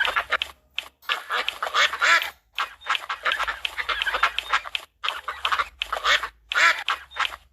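Ducks quacking over and over: a dense run of short, harsh quacks, several a second, with only brief pauses.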